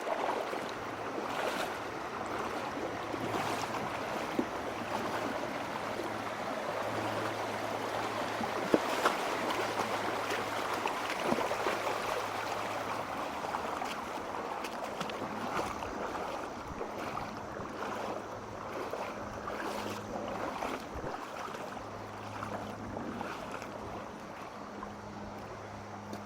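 Valley stream water rushing over rocks, a steady rush with a few sharp knocks or splashes.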